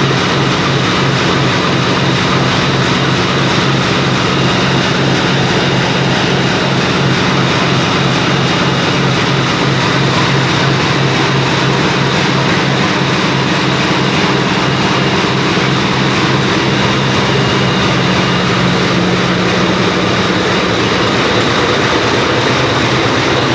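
Industrie 550 hp marine diesel engine running steadily in a barge's engine room, with an even, rhythmic beat. The engine has a leaking cylinder head.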